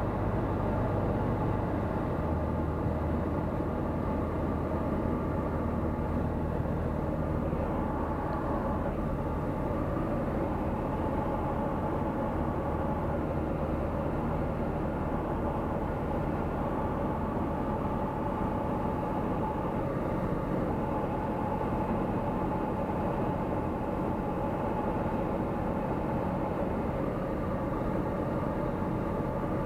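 Steady engine and propeller drone of a Tecnam P96 Golf light aircraft's Rotax 912 flat-four in flight, heard inside the cockpit.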